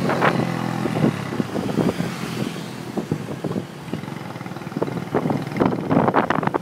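Motorbike riding in city traffic: the engine's steady tone fades about a second in, and from there wind buffets the microphone in irregular gusts over the traffic noise.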